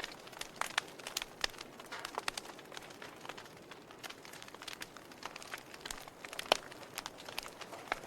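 Wood fire crackling in a fireplace: irregular snaps and pops over a soft hiss, with one louder pop about six and a half seconds in.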